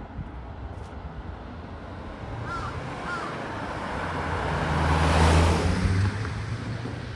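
A car passing on the street: engine hum and tyre noise swell to a peak about five seconds in, then fade away.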